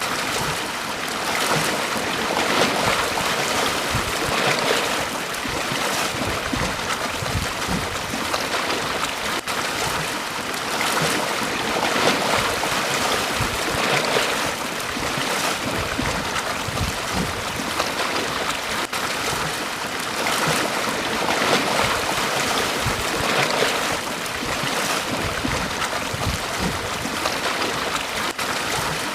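Sea waves breaking and washing up a beach, a continuous rush of surf that swells and eases every few seconds.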